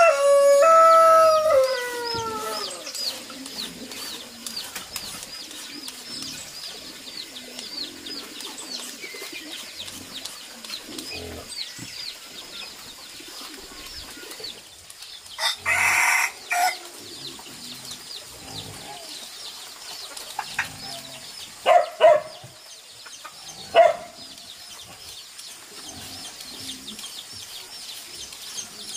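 A rooster crows loudly right at the start, one long call that falls in pitch over about three seconds. Short sharp calls follow near the end, with a loud burst halfway through. Fast high chirping carries on in the background through the first half.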